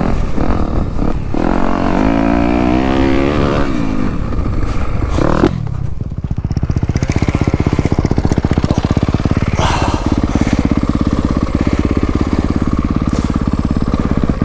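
Dirt bike engine being ridden: revs climb and fall off in the first few seconds, then it runs at low, steady revs with an even pulsing beat for the rest.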